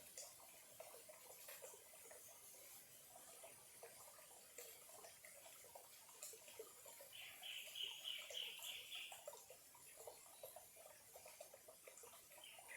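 Faint trickling and bubbling of a small, shallow stream over stones. About halfway through, a short run of high, rapid chirps rises above the trickle for about two seconds.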